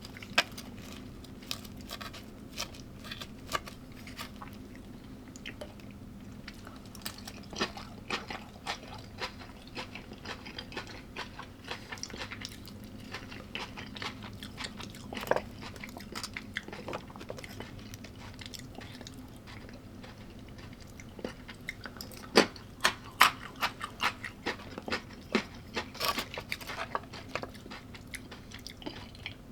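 Close-up eating sounds: a person biting and chewing food, with irregular sharp crunches that come thickest near the end.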